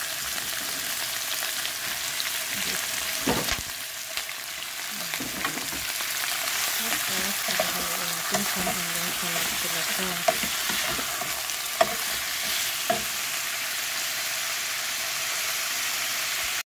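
Beef frying with garlic in hot oil in a pot, a steady sizzle, with a few sharp clicks of a wooden spatula knocking the pot as it is stirred.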